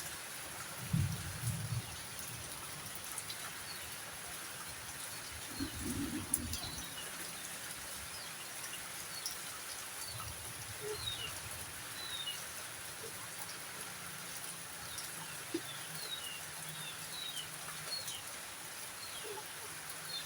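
Steady hiss of rain with small birds chirping throughout in short, falling high notes. A few low, muffled calls or rumbles come about a second, six seconds and ten seconds in.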